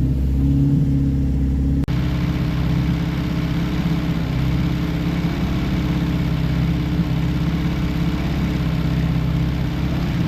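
Freshly rebuilt 1311cc A-series four-cylinder engine idling steadily while warming up, almost at operating temperature on its first run. About two seconds in, a steady hiss joins the engine hum.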